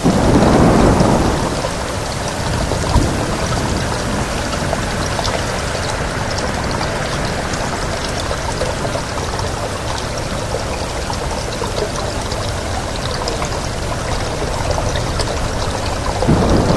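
Steady rain with wind, an even hiss of falling water. It swells louder for the first second or so and again near the end, with one sharp crack about three seconds in.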